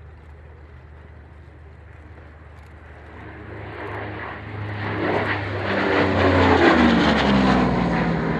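Lockheed P-38 Lightning's twin piston engines flying past. A low steady hum grows louder from about three seconds in, peaks around six to seven seconds with the engine note falling in pitch as the plane passes, then begins to fade.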